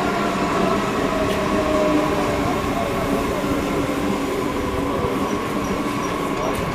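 Train running on the rails at a station: a steady, loud rumble with humming tones, one of them falling slowly in pitch over the first few seconds.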